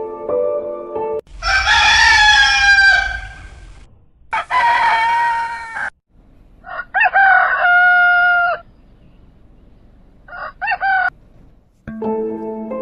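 A rooster crowing four times, a morning wake-up call, the last crow short. Soft background music plays before the first crow and returns near the end.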